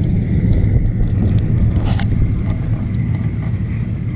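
Car engine running steadily with a low rumble, and a single sharp click about two seconds in.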